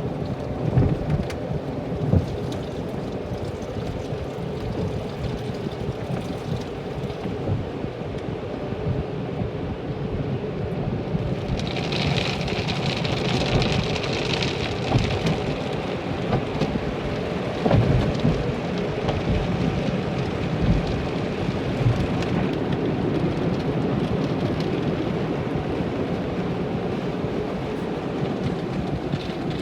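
Automatic car wash heard from inside the car: water spraying and beating on the body and windows, a steady rain-like rumble with a few sharp thumps. A louder, hissing spray comes in for a few seconds about halfway through.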